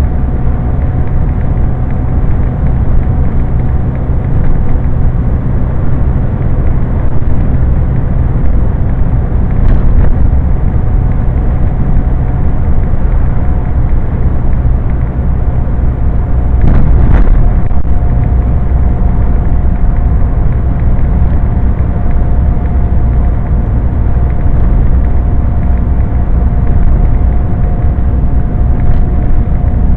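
Scania truck running at road speed, a loud steady low drone of engine and road noise with a thin steady whine over it. A brief knock or rattle about halfway through.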